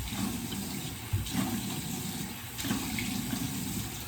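Bathroom sink tap running steadily, with a splash of water every second or so as a face is washed at the basin.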